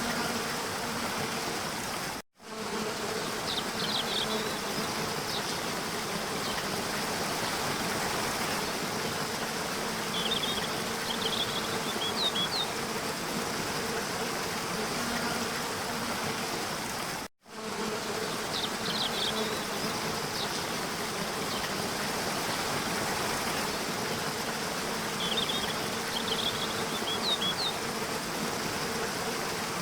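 Steady rushing water of a waterfall, with short clusters of high bird chirps a few times. The sound cuts out for a split second twice, about 15 seconds apart, and the same pattern of chirps repeats after each gap, as in a looped recording.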